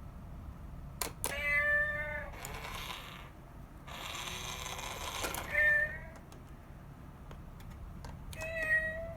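A cat meowing three times in short, high calls, with a few sharp clicks and stretches of rustling between the meows.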